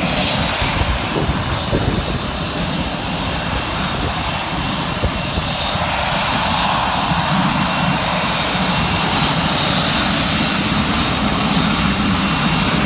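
Panavia Tornado GR4's twin RB199 turbofan engines running, a loud steady jet noise with a high whine.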